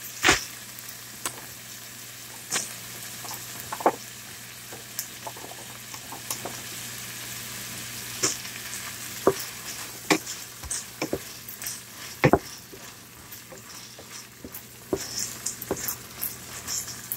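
Ground pork sizzling as it sautés in a pan, with a wooden spatula scraping and knocking against the pan every few seconds as green beans are stirred in.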